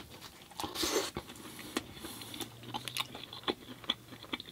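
Close-miked chewing and biting of someone eating, with wet mouth clicks and a louder bite about a second in.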